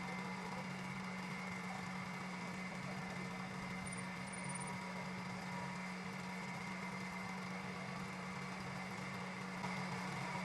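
Steady hum of an electric motor running, most likely the wood lathe spinning, slightly louder near the end.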